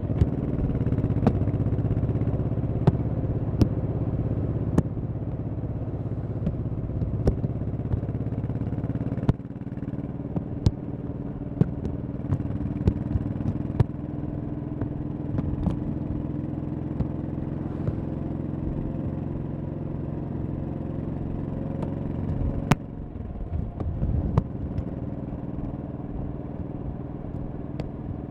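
1100cc V-twin motorcycle engine running under way, heard from a mic on the bike. The engine note drops about nine seconds in and dips briefly again about 23 seconds in, with scattered sharp clicks throughout.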